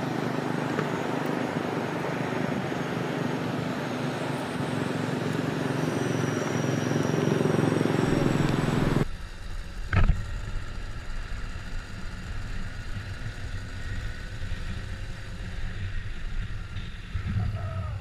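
Motorbike engine and rushing wind noise while riding, getting louder toward the middle. It cuts off suddenly to a quieter low rumble, with one sharp knock a second later.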